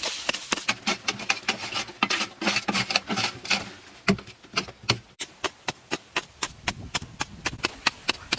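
A fast, even series of sharp taps or knocks, about four to five a second, like hand-tool work striking wood or earth, with a brief break about halfway through.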